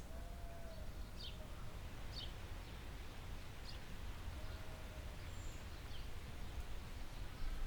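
Forest ambience: short, high bird chirps about once a second over a steady low rumble, with two faint, drawn-out lower calls near the start and in the middle.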